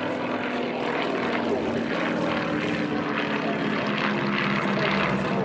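Propeller-driven airplane engine droning steadily as the aircraft flies past.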